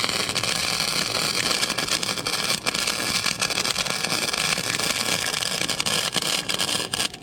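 Wire-feed welder arc crackling and hissing in one continuous bead, stopping abruptly near the end.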